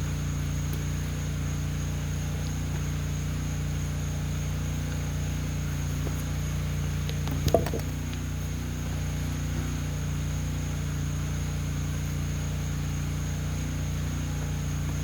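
Steady machine hum with a constant high thin tone above it, broken once by a single sharp clank about seven and a half seconds in.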